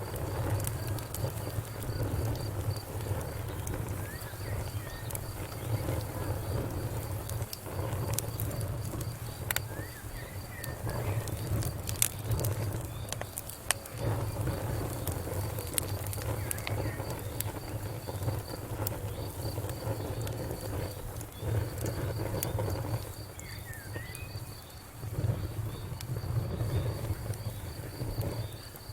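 Wood fire burning, crackling with scattered sharp pops over a low rumble, one pop louder about twelve seconds in. A steady, rapid high-pitched trill runs alongside it.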